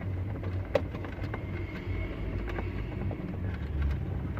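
Wiring and plastic dash trim being handled, with scattered light clicks and one sharp click a little under a second in, over a steady low hum.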